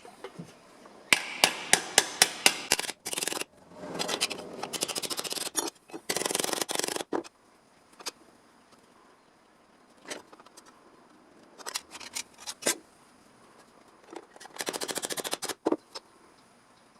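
Hand sheet-metal work on a steel repair panel. About a second in comes a quick run of eight or so sharp strikes. Several dense runs of rapid rattling clicks follow, each lasting about a second, with scattered single clicks between them.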